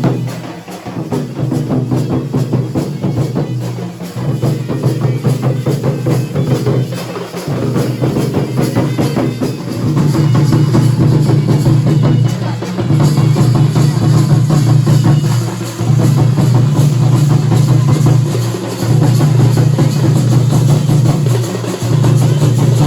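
Kurum dhol and nagada drums playing a fast, dense rhythm with a heavy, booming low end that swells and drops in phrases of a few seconds; the playing grows louder about ten seconds in.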